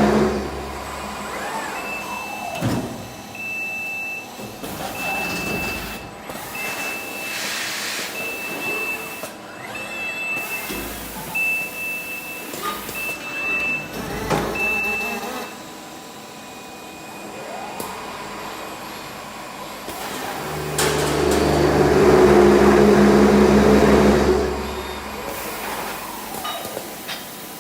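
Machinery of an automated robotic drilling and pressing cell running, with a high electronic beep repeating about once a second for some twelve seconds, and a louder steady motor hum for a few seconds near the end.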